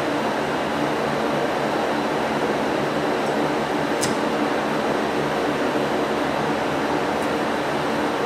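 A steady mechanical whir, with a faint click about four seconds in.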